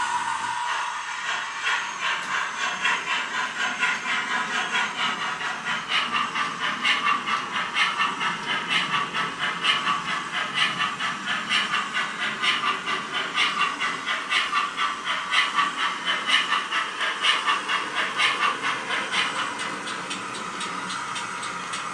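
Digital steam-locomotive sound from a Zimo MX648F decoder running a Youchoos sound file in a DJM Class 14xx tank-engine model, played through a small Brick 8 speaker in the coal bunker. Steady hiss with rhythmic chuffs about two a second, which ease off to a steadier hiss near the end.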